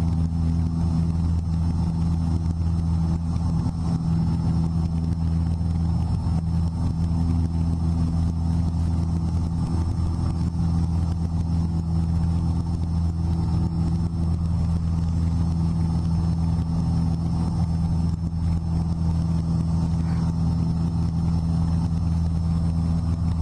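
Cessna 172's piston engine and propeller droning steadily at takeoff and climb power, with no change in pitch.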